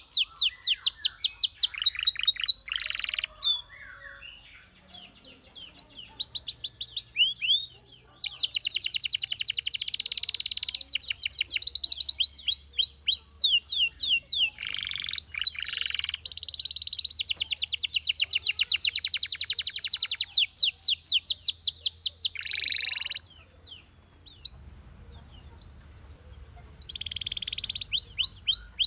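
A Belgian canary singing: phrases of fast, high trills of repeated sweeping notes, broken by short pauses about four seconds in and again near the end.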